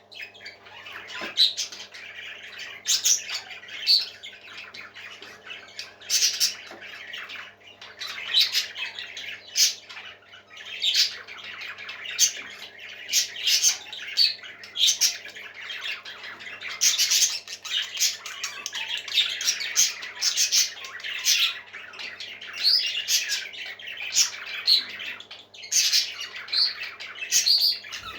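Parrots squawking: harsh, raspy calls repeated several times a second, one after another without a real pause, over a steady low hum.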